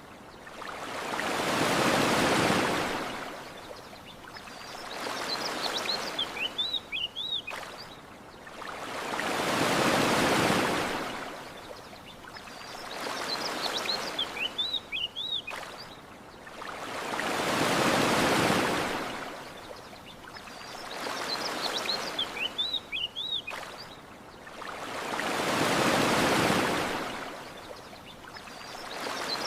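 Gentle ocean waves washing onto a beach, one surge swelling and falling away about every four seconds, stronger and weaker ones alternating. Short bird chirps come in the quiet moments between surges.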